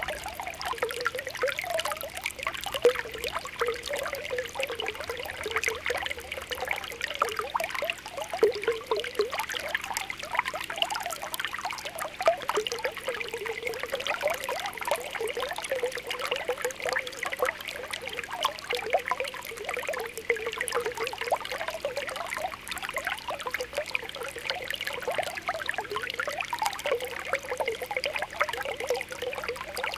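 Spring water welling up from the ground, with a continuous, dense popping and bubbling over a steady trickle.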